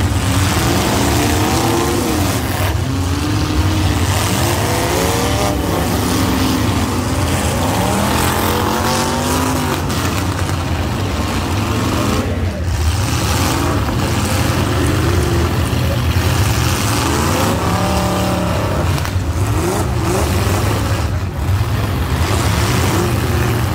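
Several super stock demolition derby cars' engines revving up and down at once over a constant loud, deep rumble.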